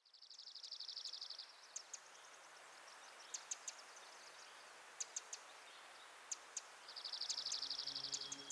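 Songbird trilling: a fast, even trill about a second and a half long at the start and again near the end, with short high chirps scattered between, over a faint steady hiss of outdoor ambience.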